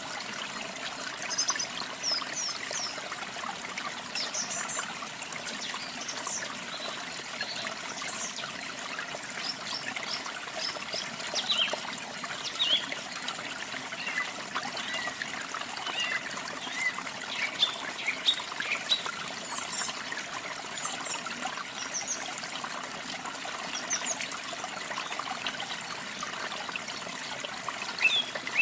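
Water trickling and splashing steadily, like a small waterfall or stream, with small songbirds chirping in short, high notes throughout.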